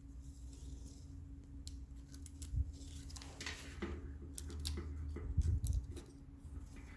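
Small, thin plastic zip ties being threaded through holes in a gauge bracket and handled, giving scattered light clicks and short scratchy ratcheting sounds.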